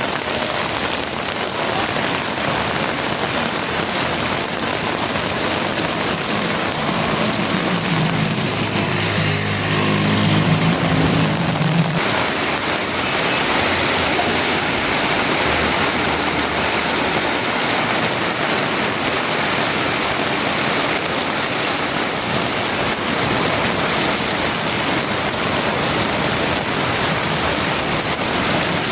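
Heavy rain falling steadily, a dense even hiss. From about seven seconds in, a low droning hum joins it and stops abruptly about five seconds later.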